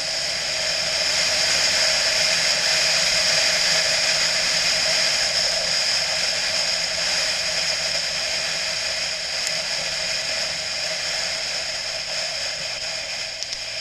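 BMW motorcycle running on the road, a steady engine and rushing noise that swells over the first couple of seconds and then slowly fades.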